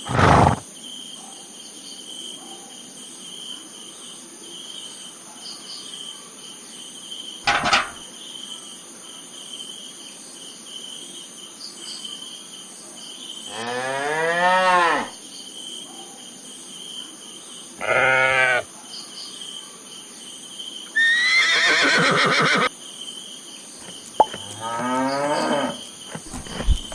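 Cattle mooing, four separate calls spread over the second half, some rising in pitch, over a steady high cricket chorus. There are two short sharp knocks, one at the start and one about eight seconds in.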